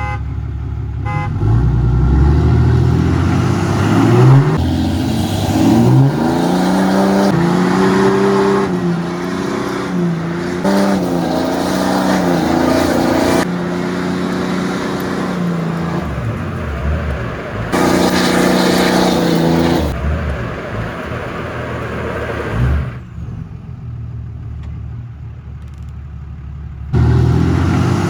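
Ram 3500 diesel pickup engines revving hard under load, their pitch rising and falling. The sound breaks off and changes abruptly several times.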